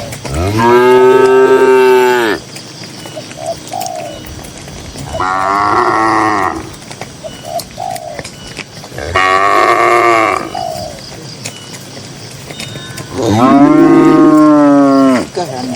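Cattle mooing: four long moos a few seconds apart, the first and last deep and loud, the two in between higher-pitched.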